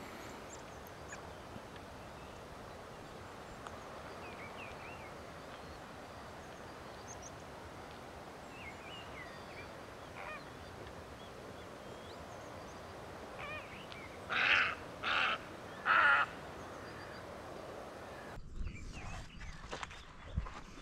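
Three loud honking calls from a large bird in quick succession, over a steady outdoor background with faint chirps from small birds.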